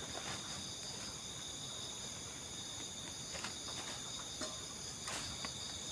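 Night insect chorus of crickets, trilling steadily on several high pitches at once, with a couple of faint clicks about halfway through and near the end.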